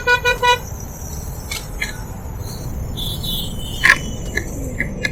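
Steady wind and road rumble of a motorcycle ride. For about the first half-second a rapid pulsed beeping sounds over it, followed by a few scattered clicks.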